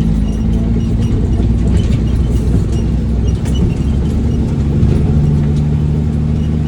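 Diesel dump truck engine running steadily while driving, heard from inside the cab, with light rattles and clicks from the cab.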